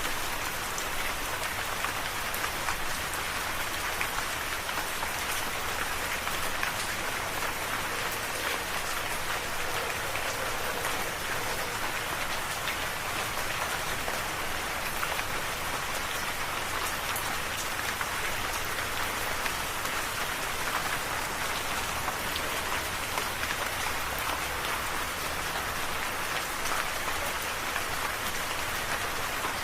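Steady rain falling, a dense even hiss with the fine patter of individual drops.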